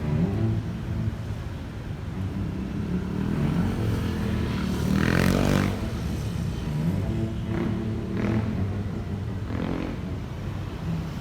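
City street traffic: vehicle engines running steadily, with one vehicle passing close and loud about five seconds in, its pitch rising and then falling.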